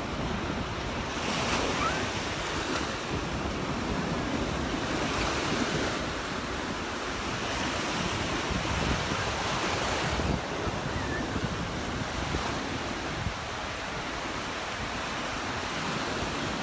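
Gulf surf breaking and washing up the beach, swelling every few seconds, with wind buffeting the phone's microphone.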